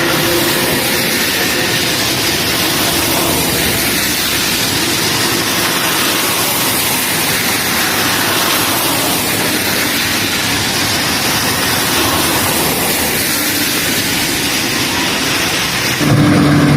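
Steady, loud rushing noise of wind buffeting the microphone while riding fast downhill on a bicycle.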